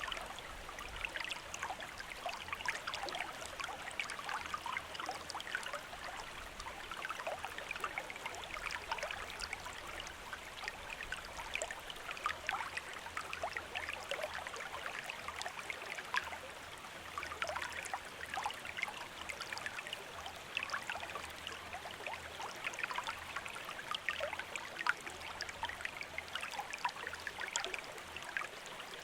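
A stream running over rocks, with a steady babble and many small quick splashes and gurgles.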